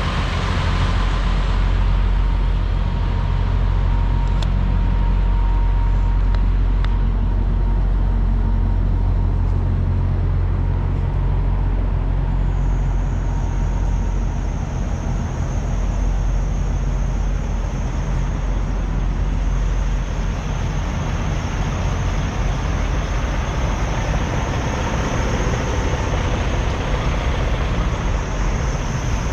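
Steady low rumble of idling truck engines. A thin high-pitched whine comes in about halfway through and holds.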